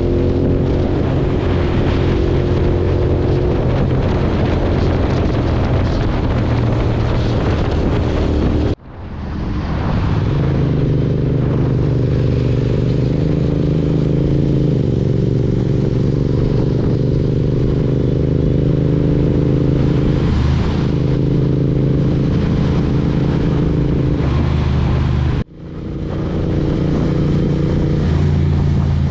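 BMW S1000RR sport bike's inline-four engine running at fairly steady revs while riding, with rushing wind noise. The sound cuts out abruptly twice, about nine seconds in and again near the end, and comes straight back each time.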